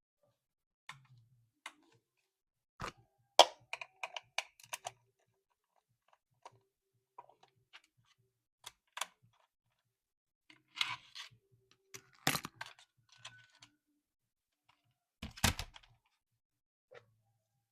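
Plastic toy and packaging being handled during an unboxing: scattered clicks, taps and short crinkles with quiet gaps between, a sharp knock about three seconds in and a louder crinkle near the end.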